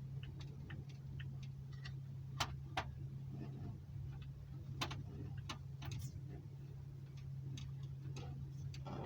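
Irregular light clicks and taps, as of small parts being handled, over a steady low hum. No engine is running.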